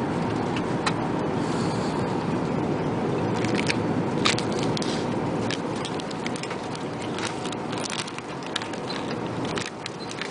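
Steady roar of air and engine noise inside an Airbus A380's cabin in flight, with scattered small clicks and scrapes of things being handled close by.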